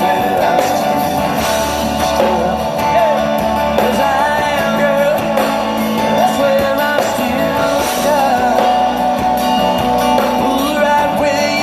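Live country-rock band playing loud and steady, with a pitched lead line wavering and bending over the full band.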